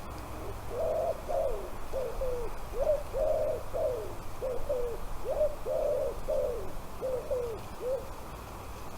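A bird calling repeatedly: a run of about fifteen short, low calls, roughly two a second, each dropping in pitch at its end.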